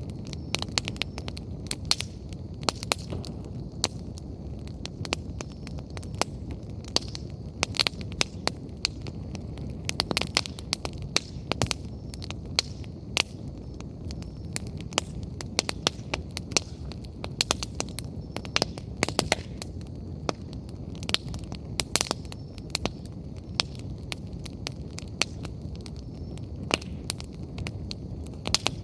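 Wood campfire burning: a steady low rumble of flames with frequent irregular crackles and the odd sharper pop from the burning logs.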